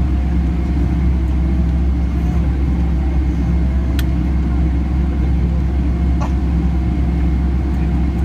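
Steady engine and airflow rumble inside the cabin of a Boeing 767-300 in flight, deep and unbroken with a faint steady hum over it. Two small clicks around the middle.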